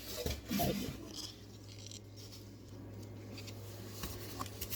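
Faint rustling and light clicks of packaging and accessories being handled during an unboxing, over a steady low hum.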